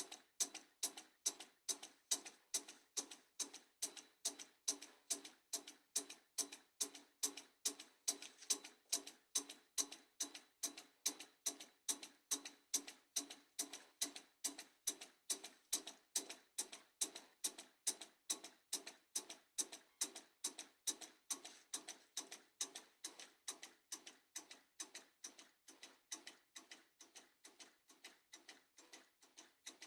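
Small homemade vacuum (flame-licker) engine running, ticking steadily about three times a second with each stroke, a little fainter over the last few seconds.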